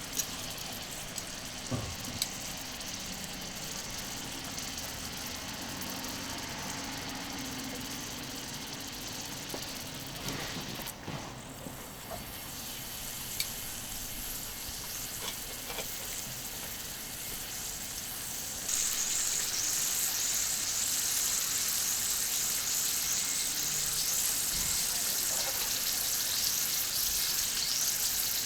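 Meat sizzling on a thick iron griddle over a charcoal grill, with a few small clicks and a quieter hiss at first. About two-thirds of the way through, the sizzling suddenly becomes much louder and crackling, as happens when meat is laid onto the hot plate.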